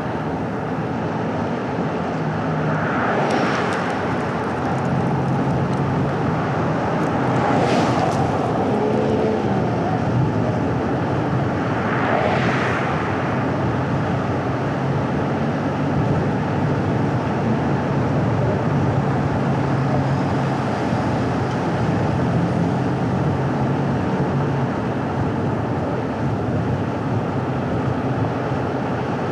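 Car driving on a winding road: steady tyre and road noise with a low engine hum. Three short swells of rushing noise rise and fade about three, eight and twelve seconds in.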